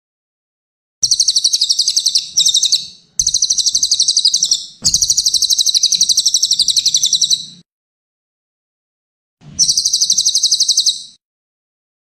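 Cililin songbird singing: four bursts of a rapid, high-pitched trill, each lasting about one and a half to two and a half seconds, with a pause of about two seconds before the last.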